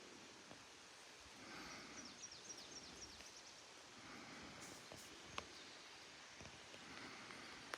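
Quiet outdoor ambience near silence. About two seconds in, a bird gives a quick series of short falling chirps, with faint rustling and a couple of small clicks around it.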